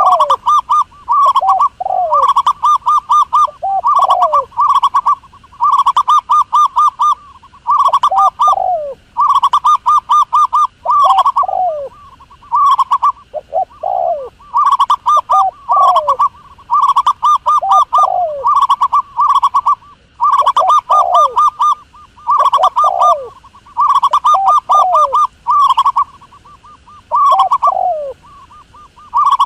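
A dove calling over and over: each phrase is a quick run of pulsed, trilled coos, followed by one or two short falling coos, repeated about every two seconds.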